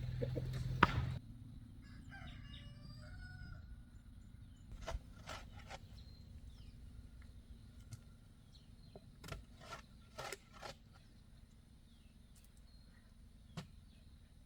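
A motor running cuts off abruptly about a second in. A rooster then crows once, faintly, followed by a few scattered knocks and clicks.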